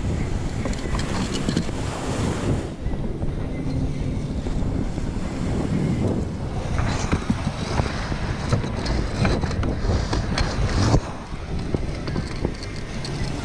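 Wind buffeting the microphone over the sound of waves and water around a kayak, with scattered knocks and clicks in the second half, the loudest about eleven seconds in.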